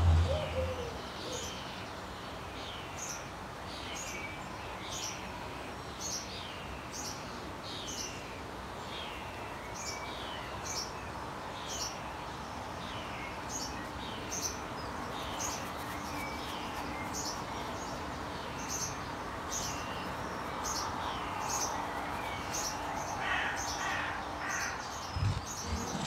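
A garden bird chirping over and over, each call a short falling note, about once or twice a second, against steady background noise.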